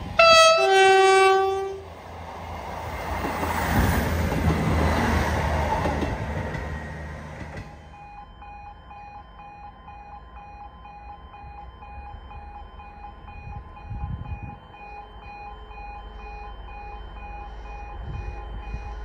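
A train sounds its two-tone horn, a short high note then a longer low note, then passes with a swelling and fading rush of wheel noise that cuts off after about six seconds. The level crossing's warning alarm keeps sounding throughout in a steady, pulsing pattern.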